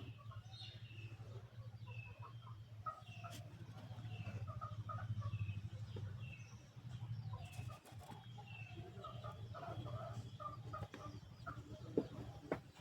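Small birds chirping over and over, over a steady low hum.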